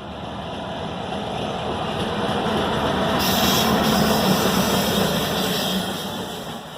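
Diesel locomotive running light (no train behind it) passing: engine and wheel-on-rail noise build to a peak about four seconds in, with a hiss joining as it comes level, then fade as it draws away.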